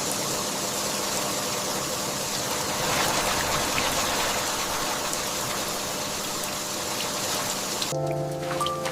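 Steady rain, a dense even hiss. Near the end it drops away and soft music notes begin.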